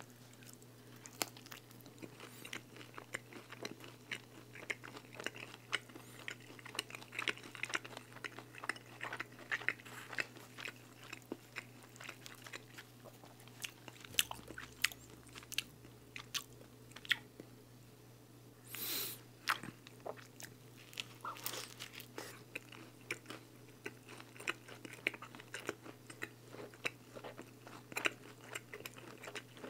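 Close-up chewing of a thin-crust four-cheese pizza: a steady run of small crisp crunches and bites, with a brief louder hiss about two-thirds of the way through.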